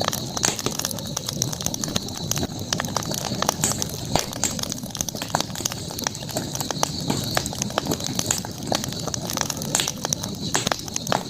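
Campfire burning with irregular sharp crackles and snaps, over a steady high-pitched background hiss.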